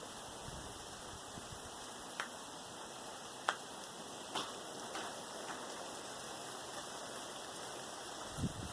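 Steady rain falling, with a few louder single drops striking close by between about two and five seconds in, and a couple of low thumps just before the end.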